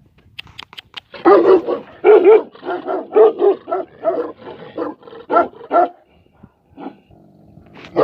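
Tibetan mastiff barking in a fast run of about three barks a second, starting about a second in and dying away near six seconds, with a single bark again near the end.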